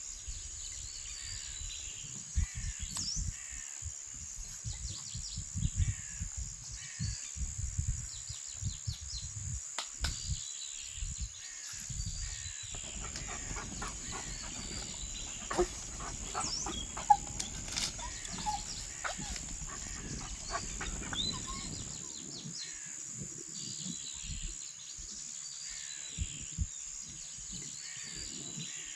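Woodland ambience: small birds chirping repeatedly over a steady high-pitched insect drone. Low thumps and rumbles come through in the first half, and rustling with a few sharp clicks or knocks in the middle.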